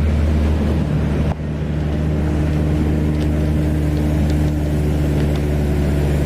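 A car being driven, with a steady drone of engine and road noise and a brief drop in level just over a second in.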